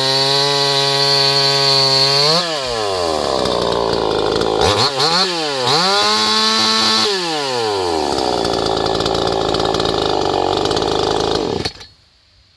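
Stock 58 cc Heinner VMF001 Chinese two-stroke chainsaw running hard while cutting wood. Its pitch drops and swings up and down a few seconds in, then runs lower and steadier before the engine cuts off abruptly near the end.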